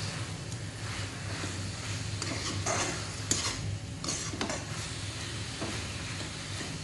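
Chicken pieces sizzling as they sauté in a metal wok over a high flame, while a spatula stirs and scrapes them against the pan. A few sharper scrapes come about two to four and a half seconds in.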